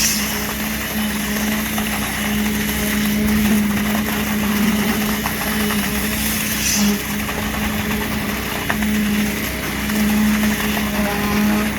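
Concrete pump running steadily during a pour: a constant engine hum with a strong humming tone that drops out briefly every few seconds.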